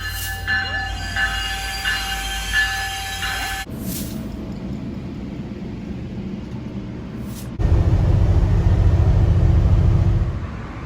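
GO Transit commuter train sounds that change abruptly twice. First there is a steady tone with a short repeated ring about every 0.7 s. Then comes the train's running rumble, and from about three-quarters in a louder, deeper rumble that drops away near the end.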